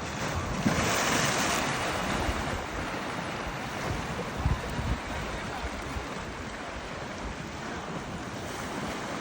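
Steady rush of water, swelling during the first couple of seconds, with wind buffeting the microphone in low thumps.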